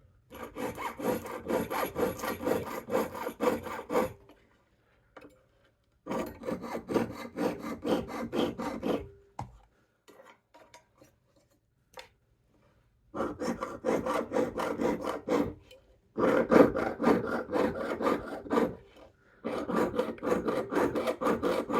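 Jeweler's saw cutting 20-gauge sterling silver sheet, in quick rhythmic strokes in five runs with short pauses between. The blade is chattering in the cut, which she puts down to needing more Burr Life lubricant.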